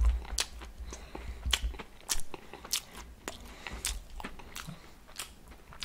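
A person chewing a crunchy snack close to the microphone: a run of irregular crisp crunches.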